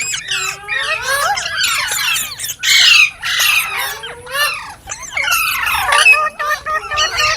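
Green parrots squawking and chattering, with many short rising and falling calls overlapping throughout. The loudest is a harsh squawk just under three seconds in.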